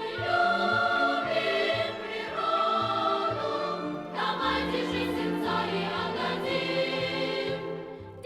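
Background music with choral singing: several sustained voices with vibrato over an accompaniment. It softens near the end.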